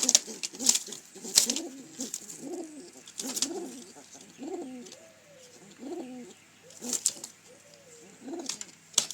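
Domestic pigeons cooing, a run of low rolling coos one after another, with sharp scuffing clicks in between that are thickest in the first second and a half.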